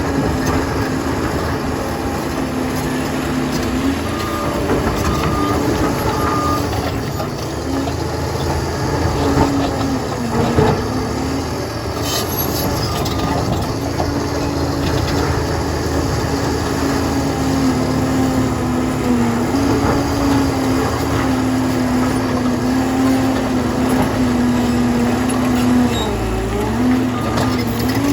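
Liebherr PR 746 crawler dozer working, its engine running steadily under load with a pitch that sags briefly now and then, with scattered faint clicks and knocks.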